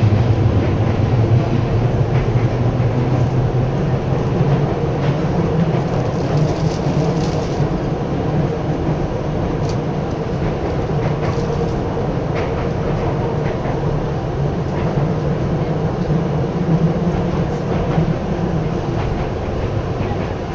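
Tokyu Oimachi Line express train running, heard from inside the passenger car: a steady low rumble of wheels on rail with occasional light clicks.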